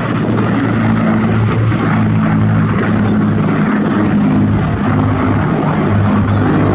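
Supermarine Spitfire's piston aero engine running steadily as the propeller fighter flies in its display, a loud, even low drone.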